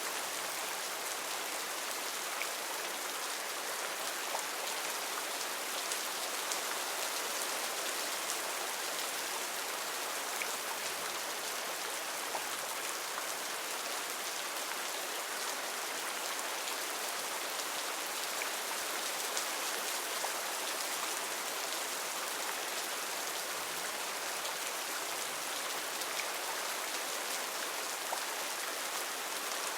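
Steady heavy rain falling on foliage and the ground, an even hiss with many individual drops pattering through it.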